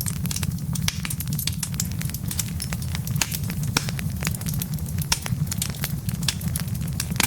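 Wood fire burning in a fireplace, with many quick irregular crackles and pops from the logs over a steady low rumble of the flames.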